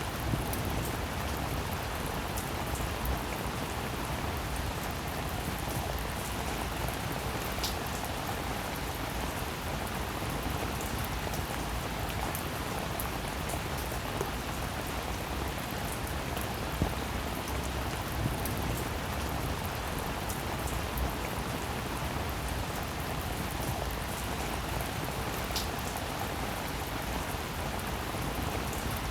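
Steady rain falling, an even hiss of drops with single drops ticking close by now and then.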